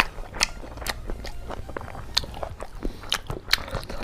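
A person chewing a mouthful of pork curry and rice, with irregular wet mouth clicks and smacks several times a second.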